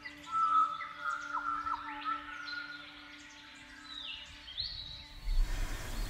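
Several birds chirping with short calls and quick pitch glides over a low steady drone. A low rushing noise comes in about five seconds in.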